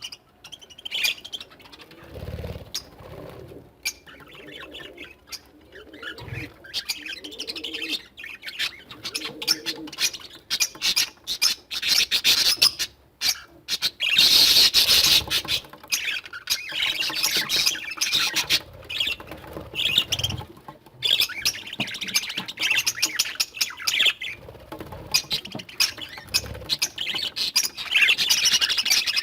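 A flock of pet budgerigars and cockatiels chattering, chirping and squawking, loudest about halfway through, with a few dull thumps now and then.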